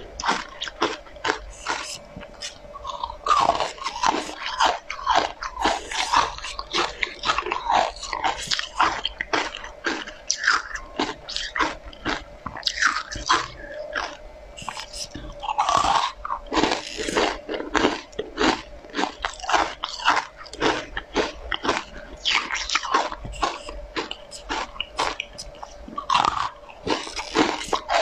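Close-up crunchy biting and chewing of hard pink spoon-shaped sweets coated in matcha powder, a rapid irregular run of crisp crackles and crunches.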